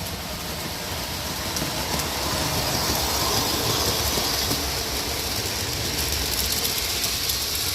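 O gauge model train running on its track, a steady rumble and hiss that grows louder toward the middle and then eases off slowly.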